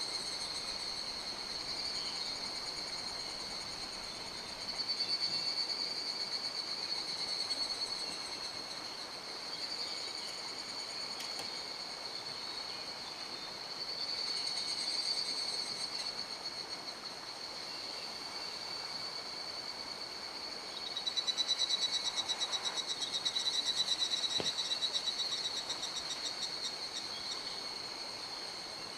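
A continuous chorus of high-pitched, rapidly pulsing trills that swells and fades in waves, over the steady rush of a mountain stream.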